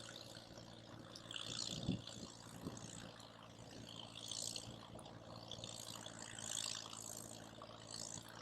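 Campfire burning: a hissing that swells and fades in patches, with a couple of soft knocks about two and three seconds in.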